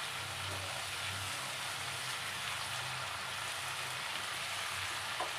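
Chicken pieces and masala frying in oil in a kadai, giving a steady sizzle while chopped tomatoes are tipped in.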